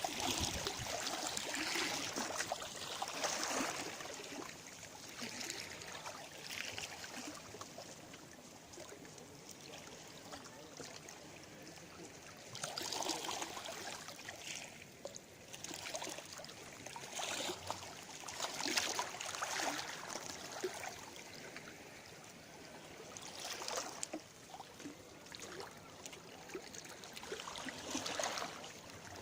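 Small sea waves splashing, the wash swelling and falling back in irregular surges a few seconds apart.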